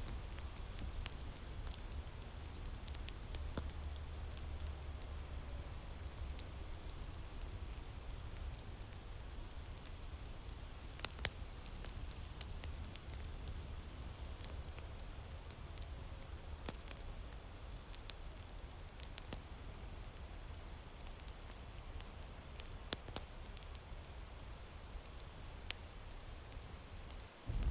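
Wood fire crackling, with scattered sharp pops, over a low, steady rumble of wind.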